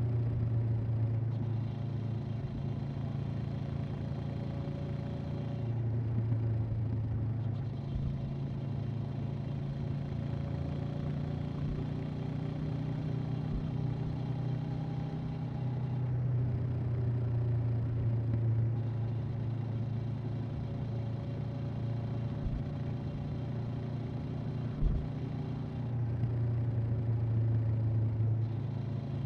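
Honda CB500X parallel-twin engine and exhaust running at a steady cruise, with a low, even drone that swells a little in a few stretches as the throttle changes. There is a brief knock near the end.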